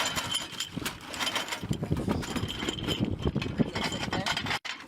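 Repeated metal clicks and clanks of hardware being handled, over a steady engine or machine running.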